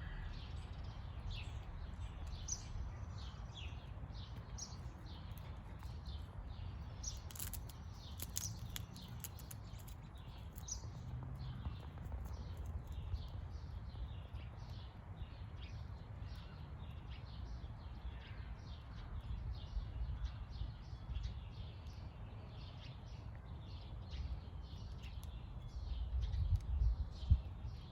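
Small birds chirping, many short calls all through, over a steady low rumble that swells briefly near the end. A few sharp clicks come about a third of the way in.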